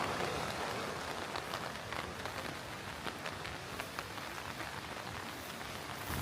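Steady rain falling, a continuous hiss dotted with many small ticks of drops landing close by.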